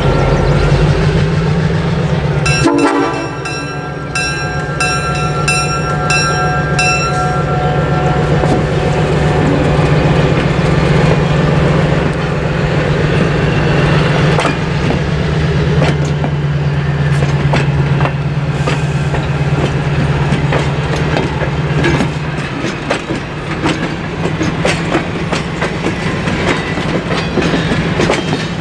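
Freight train passing close by: the locomotive engine runs with a steady low hum, and its horn sounds a chord for about four seconds starting a couple of seconds in. After that, rolling rumble and wheels clicking over rail joints.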